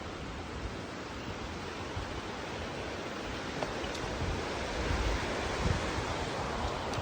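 Steady rushing outdoor noise of wind or moving water, swelling slightly a little past the middle, with irregular low rumbles underneath.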